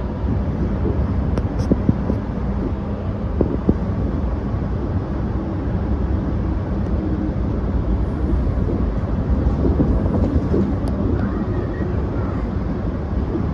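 Running noise heard inside the rear cab of a Sydney Trains electric suburban train in motion: a steady low rumble of wheels on rails, with a few short clicks and knocks in the first few seconds.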